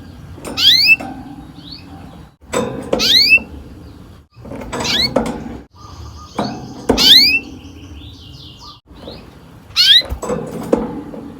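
Canary singing: sharp upward-sweeping whistled notes repeated about every two seconds, with a fast trilled roll of repeated high notes in the middle.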